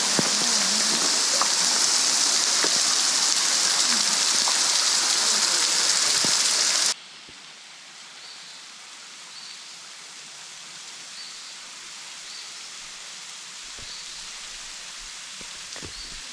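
Water of a very tall, thin waterfall pouring down close by, landing like heavy rain in a loud, even hiss. About seven seconds in it cuts off suddenly to a much quieter hiss with a few faint high chirps.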